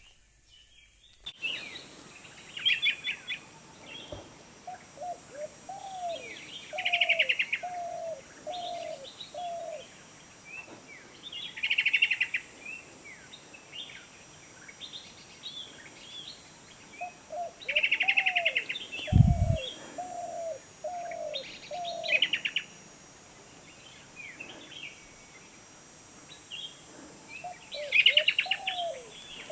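Wild birds calling in forest: a loud rapid chattering phrase repeated about every four to five seconds, and runs of five or six lower, falling whistled notes from another bird. A steady high hiss sits underneath, with one low thump about 19 seconds in.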